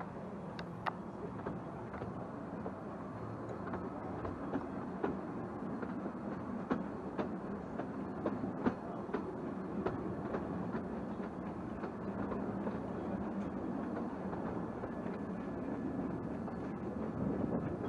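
Narrow-gauge railway train running along the track, heard from one of its carriages: a steady rumble of wheels on rail with sharp clicks and clanks scattered through it, most of them in the middle of the stretch.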